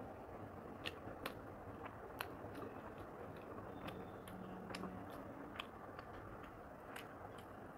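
Faint chewing of a mouthful of chicken curry and rice, with scattered sharp wet mouth clicks and smacks.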